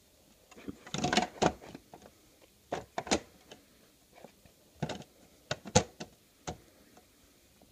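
Clicks and rattles from the rebuilt Traxxas Jato 3.3 RC truck being handled, its plastic and metal parts knocking in short clusters.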